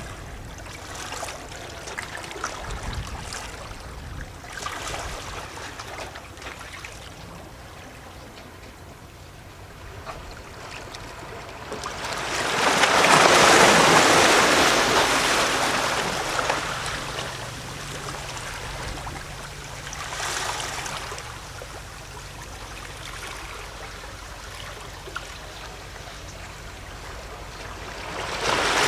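Gentle sea waves lapping and gurgling against shoreline rocks: small splashes and trickles, with a larger wave washing in about halfway through, a smaller one a little later, and another swell building right at the end.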